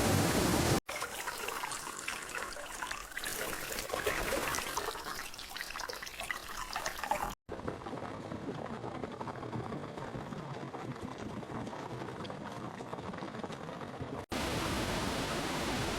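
Water running and splashing, heard as two edited-together segments with abrupt cuts between them, the first crackly and busy, the second softer, framed by steady rain-like hiss.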